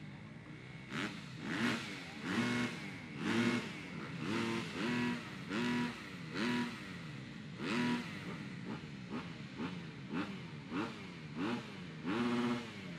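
250cc grasstrack motorcycle engines revving in repeated bursts over a steady drone, each burst rising in pitch and dropping back, about one a second.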